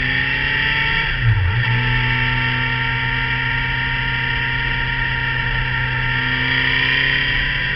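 Motorcycle engine running under way, a steady drone with a brief dip in pitch and a small bump about a second in, after which the pitch slowly rises as the bike pulls along.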